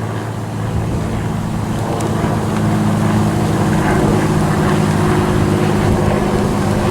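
Single-engine propeller plane's engine droning as it flies a low pass, getting a little louder partway through.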